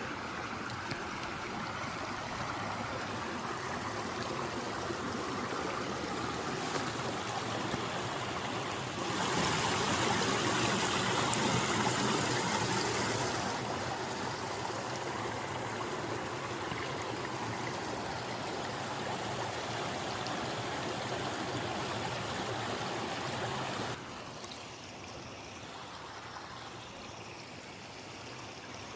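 Running water flowing steadily, like a stream. It grows louder about nine seconds in, settles back a few seconds later, and drops abruptly to a quieter level near the end.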